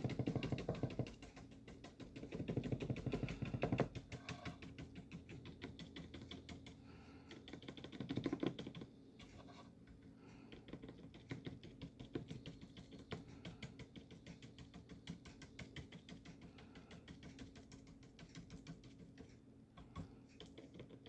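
Stiff bristle brush dabbing gouache onto paper, heard as a long run of faint, quick ticks. A few louder, scrubbing passes come in the first four seconds and again around eight seconds.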